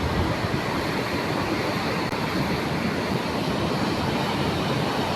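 Floodwater rushing past in a steady, unbroken noise.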